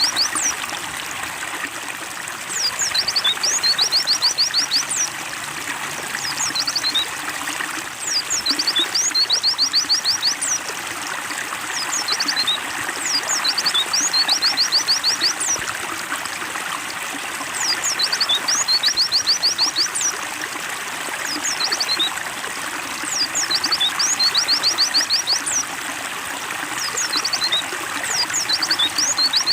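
Water trickling steadily, with a white-eye (pleci) singing high twittering phrases over it. Each phrase ends in a fast run of notes, and the phrases come about every five seconds.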